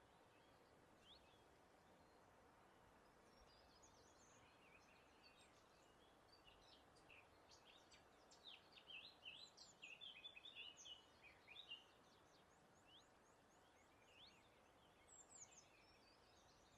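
Faint birdsong: several birds giving short, high chirps, thickest in a flurry a little past the middle, over a soft steady breeze.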